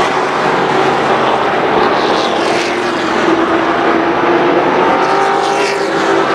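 Several Thunder Truck race trucks' engines running at speed together, a steady engine drone whose pitch shifts slightly as the trucks go around.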